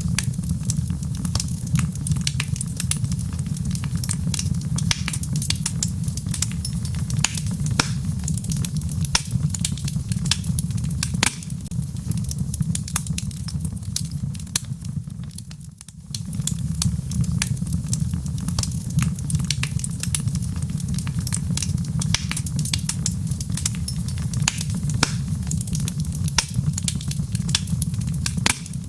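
Log fire burning in a fireplace, with frequent sharp crackles and pops over a steady low rumble. The sound drops briefly a little past halfway, then carries on as before.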